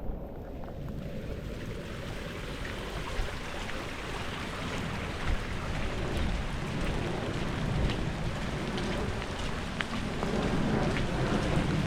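Rain falling steadily, filling in over the first couple of seconds, with a low rumble underneath.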